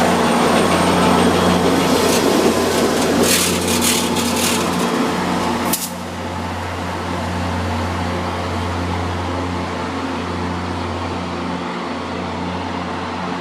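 MBTA commuter-rail diesel locomotive engine running with a steady low drone. A rushing noise over it drops away suddenly about six seconds in.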